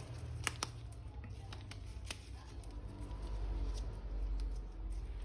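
Light handling noises: a few sharp clicks in the first couple of seconds, then quieter rustling over a steady low hum.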